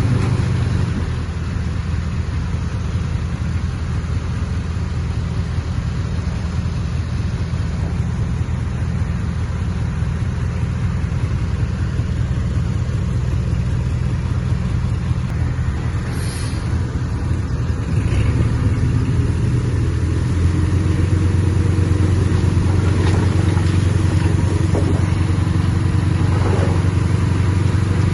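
Heavy diesel engine of earthmoving equipment running steadily with a low drone, growing louder about twenty seconds in. A brief high-pitched sound cuts through about sixteen seconds in.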